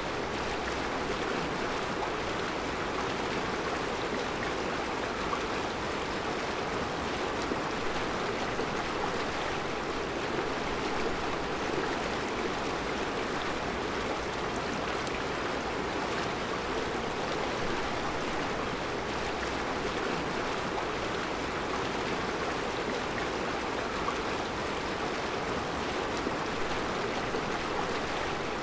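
Mountain river flowing over a rocky bed of round stones: a steady, even rush of water.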